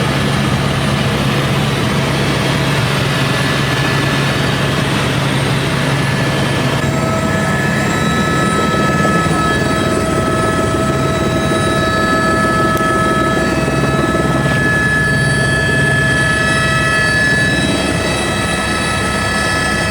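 Helicopter running steadily, a dense continuous noise with a low hum and several steady whining tones that shift to a new set about seven seconds in.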